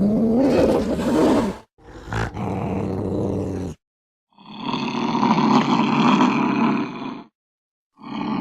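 Angry cat yowling and growling in a series of calls, each about two to three seconds long, with abrupt stops and dead silence between them. The first call wavers up and down in pitch.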